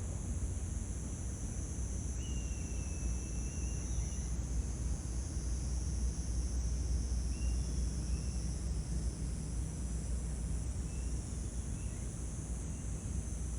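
Steady high-pitched insect chorus of crickets or cicadas over a low rumble, with a few faint, short, thin bird-like calls.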